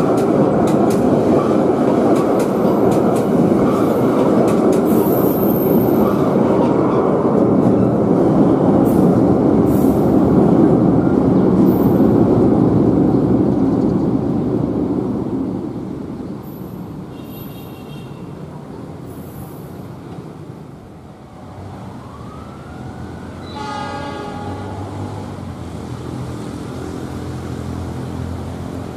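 A train running past close by: a loud, steady rumble of wheels on rail with faint clicks, which fades away after about fifteen seconds. A brief horn sounds about twenty-four seconds in, followed by a steady low engine hum.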